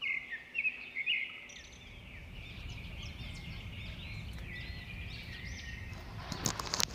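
Small birds chirping repeatedly in high, short calls, with wind rumbling on the microphone from about a second and a half in. A few sharp clicks near the end.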